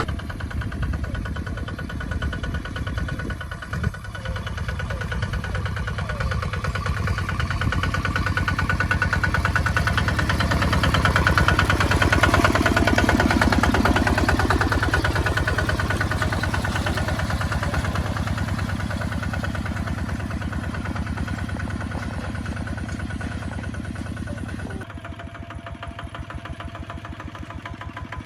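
Kubota ZT 155 DI single-cylinder diesel tractor engine running with a rapid, even chugging beat. It grows louder over the first dozen seconds, then slowly fades.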